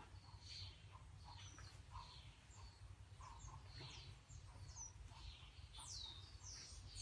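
Faint chirping of small birds: scattered high chirps, with a few quick falling chirps near the end, over a low steady hum.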